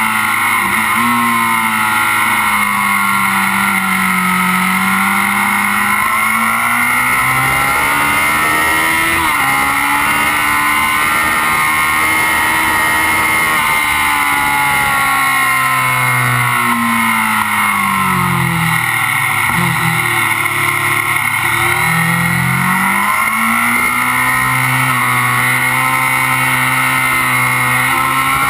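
Kawasaki Z750's inline-four engine running hard at track speed, heard close up from beside the engine cases over steady wind rush. The engine note sags and recovers, jumps at a gear change, then drops low for a stretch about two-thirds through before climbing back up.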